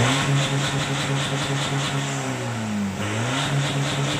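Vehicle engine revving through its exhaust: the pitch climbs at the start, holds, sinks about three seconds in, then climbs again.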